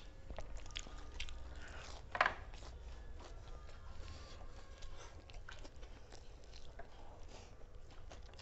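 People eating fast: chewing and crunching with many small clicks and knocks, and one louder crunch or clatter about two seconds in.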